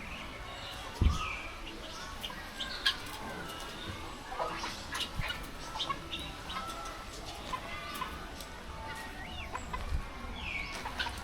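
Assorted bird calls and short chirps, with chicken clucking among them. A single thump about a second in.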